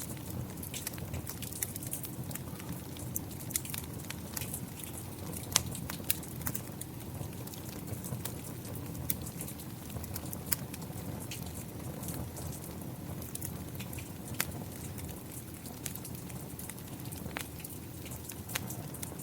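Wood fire crackling with irregular sharp pops and snaps over a steady bed of rain.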